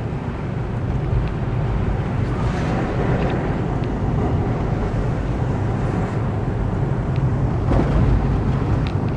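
Steady rumble of a car driving, with wind noise on the microphone.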